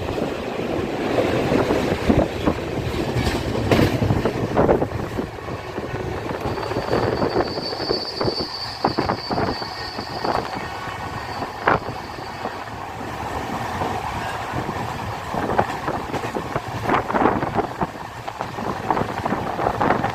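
Passenger train running on the track: wheels clacking and knocking over rail joints, with a thin high wheel squeal lasting several seconds midway.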